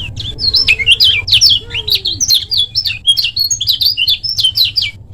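Kecial kuning (lemon-bellied white-eye) singing a fast, tightly packed run of sharp, high chirps that sweep up and down, ending just before the close, over a steady low hum.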